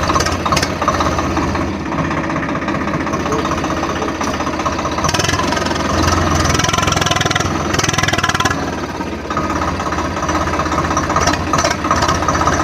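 Tractor engine running steadily while the tractor is under way, heard from on board, with a louder, noisier stretch about halfway through.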